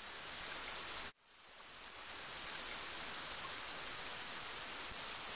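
Steady rain falling. It cuts out for a moment about a second in, then fades back up.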